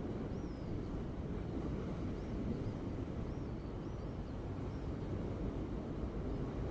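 Ocean waves: a steady low rumble of surf. A few faint, short, high chirps sound over it in the first few seconds.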